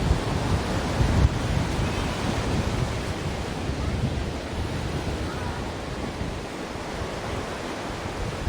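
Ocean surf: a steady rush of breaking and washing waves with a deep low rumble, swelling about a second in and easing off later.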